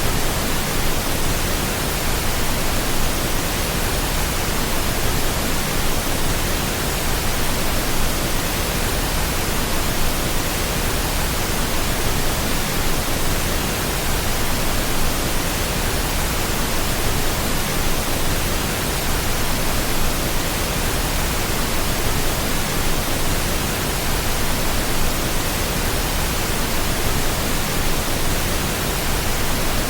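Steady pink noise: an even, unchanging hiss spread across all pitches, without a break.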